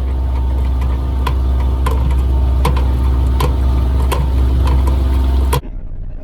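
Engine running at a steady speed, with a deep hum and a light tick repeating about every three-quarters of a second; it cuts off abruptly near the end.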